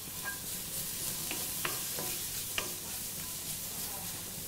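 Red pepper strips and garlic sizzling in oil in a cast iron wok, stirred with a wooden spoon. The spoon ticks against the wok a handful of times over the steady sizzle.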